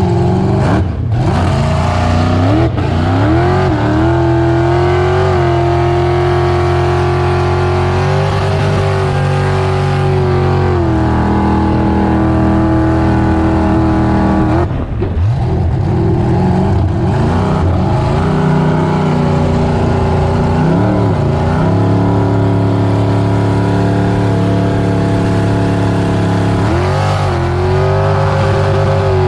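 Supercharged V8 engine of a 19 ft Tahiti boat running under way, holding steady revs between throttle changes: the pitch rises about three seconds in, shifts around eleven seconds, drops briefly near fifteen seconds, and rises again near the end.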